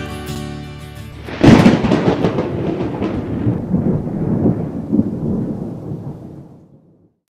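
The end of a music track, then a sudden loud thunder clap about a second and a half in that rumbles on and slowly dies away to silence.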